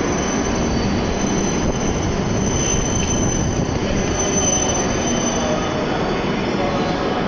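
E7-series shinkansen train rolling slowly into the platform, a dense steady rumble with a thin high brake and wheel squeal that fades out about five and a half seconds in as the train comes to rest.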